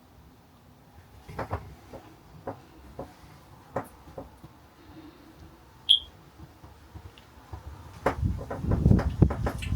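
Scattered knocks and clicks of hands and tools working on a caravan's PVC shower wall, with a short high squeak about six seconds in and a quick flurry of knocks near the end.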